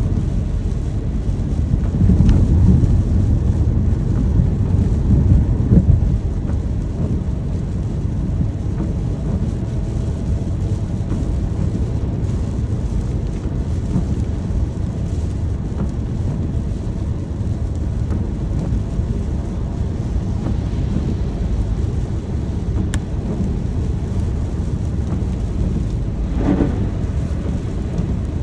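Steady rain with a low rumble of thunder that swells about two seconds in and fades after a few seconds.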